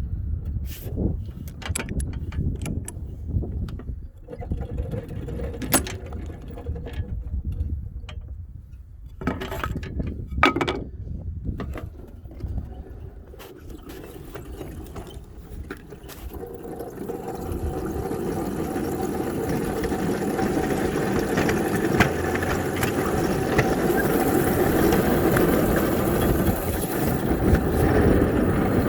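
Small ride-on backyard railroad train backing along the track: a low rumble with scattered knocks and clicks, turning into a steadier, louder running noise from about 17 seconds in.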